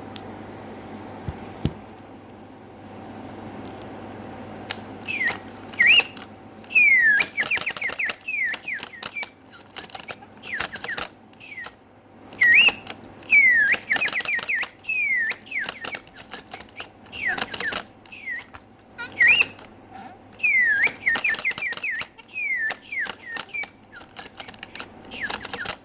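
Home-built automaton whistling bird singing: runs of short, falling whistled chirps start about five seconds in and repeat in bursts. Under them is the clicking clatter of its still-rough gear mechanism.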